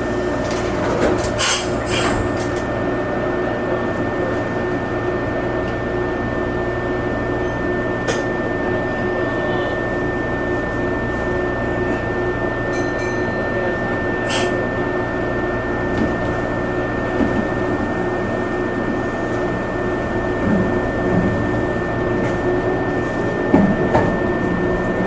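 Onboard noise inside a Meitetsu Nagoya Main Line limited express train: a steady hum and rumble with a constant high whine, broken by a few sharp clicks.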